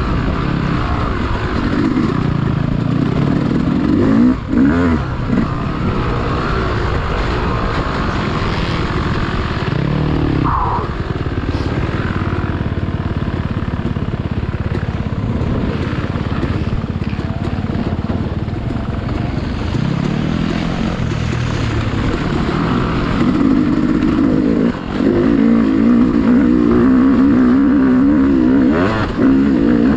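Dirt bike engine running and revving as it is ridden over the trail, its note rising and falling with the throttle, and getting louder in the last several seconds.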